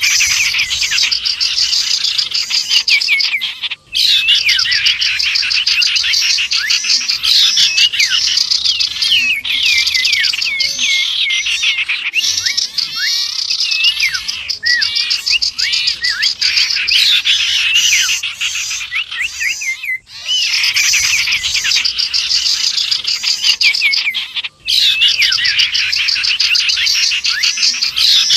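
A dense, loud chorus of small songbirds chirping and twittering over each other, with many quick rising and falling notes. It is a mixed bird-lure (pikat) recording built around common iora (cipow) calls, and it breaks off for an instant three times where the track is spliced.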